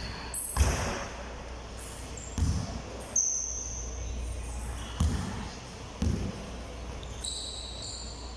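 About six separate thuds at irregular intervals, each ringing briefly in a large room.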